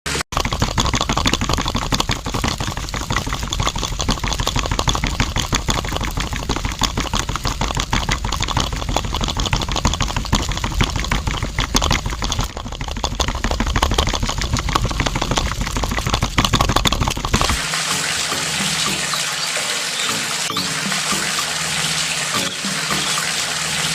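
Water pouring and splashing steadily. About seventeen seconds in the sound changes to a brighter, thinner rush without the low rumble.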